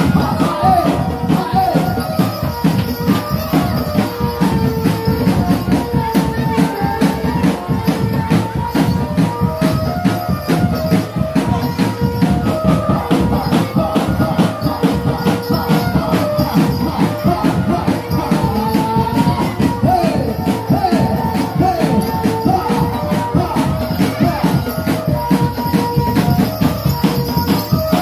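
Live barongan accompaniment music: dense, fast percussion with a jingling shaker-like rattle, under a melody of held notes that step up and down.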